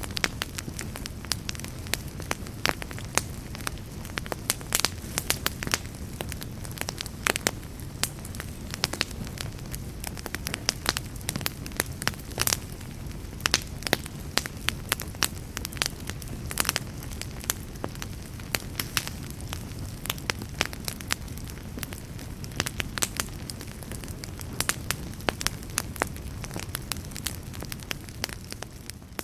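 Fire in a fireplace crackling, with irregular sharp pops several times a second over a steady low rumble.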